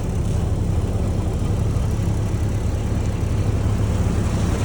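1928 Ford AA truck's four-cylinder engine idling steadily, a constant low hum.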